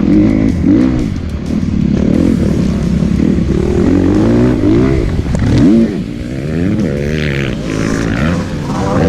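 Kawasaki KX250F dirt bike's four-stroke single-cylinder engine revving up and falling back again and again as it is ridden hard. There is a sharp climb in revs about two-thirds of the way through, then a drop.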